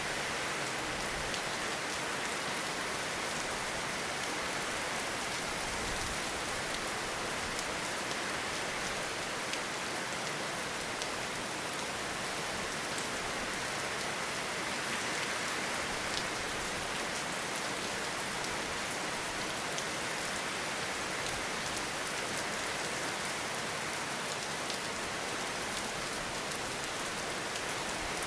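Steady rain falling in a forest, a dense even hiss with many small separate drop taps.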